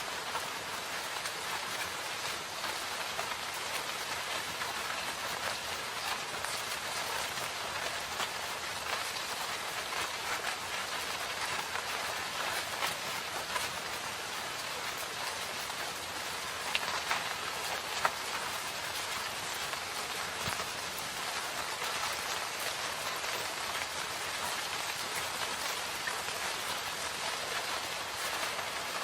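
Steady rain falling in a forest: an even hiss of many drops, with a few sharper, louder drop hits about seventeen to eighteen seconds in.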